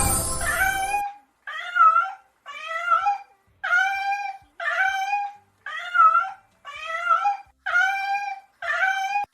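A giant panda's call, eight short high-pitched bleats about a second apart, each rising slightly in pitch and then levelling. A brief swishing music sting is heard at the start.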